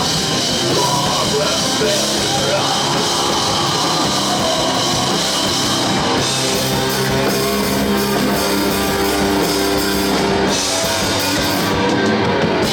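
Rock band playing with electric guitars and a drum kit, a loud, steady wall of heavy guitar rock.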